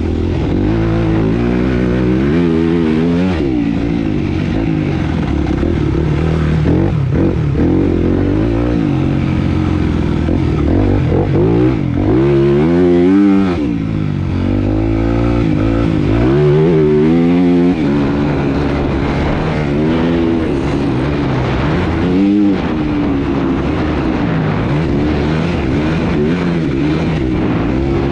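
Motocross dirt bike engine being ridden hard. It revs up and falls back again and again, its pitch climbing and dropping with throttle and gear changes.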